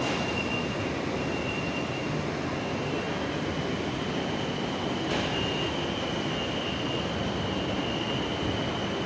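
BTS Skytrain train running along the platform: a steady rumble with a thin, high-pitched whine over it, which rises slightly partway through, and a brief click about five seconds in.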